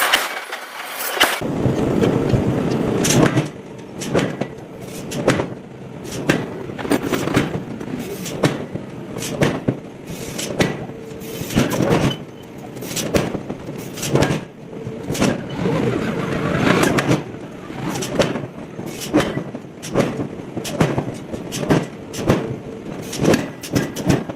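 Hammer blows on red-hot steel during forging: sharp, irregular strikes, roughly one or two a second, over a continuous rumble that starts about a second in.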